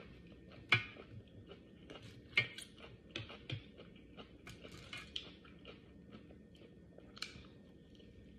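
Close-miked chewing of food by a person eating, with a scatter of wet mouth clicks and smacks. The two loudest come about a second and two and a half seconds in.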